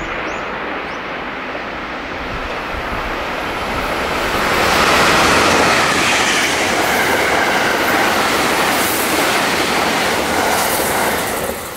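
Limited express electric train passing through a station at high speed without stopping: a rushing noise of wheels on rail that builds over the first few seconds, stays loud for about six seconds, then begins to fade near the end.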